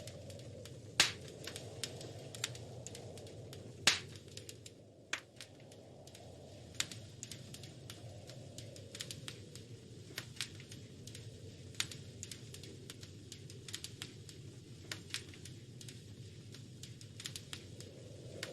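Wood fire crackling in a fireplace: irregular small pops and snaps, with two louder pops about one and four seconds in, over a low steady rush of the flames.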